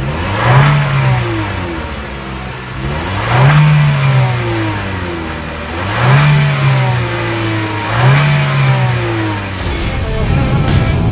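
Chevrolet Sonic LTZ's turbocharged four-cylinder engine revved four times from idle, each blip rising quickly and falling back to idle, about two and a half seconds apart.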